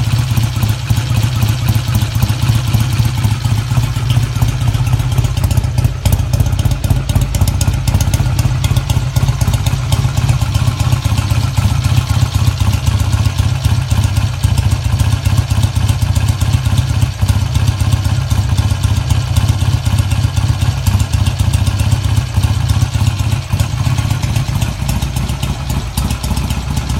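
1968 BSA A65 650 cc parallel-twin motorcycle engine running steadily at a constant speed, with no revving.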